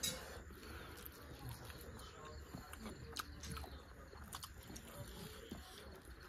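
Faint eating sounds: chewing and lip smacks from eating rice and chicken curry by hand, with scattered soft, wet clicks.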